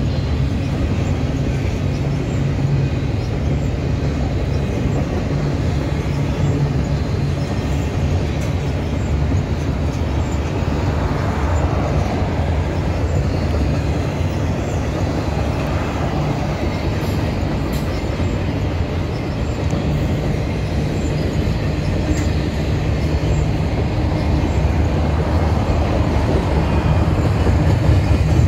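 Double-stack container train's freight cars rolling past, a steady continuous rumble of steel wheels on rail.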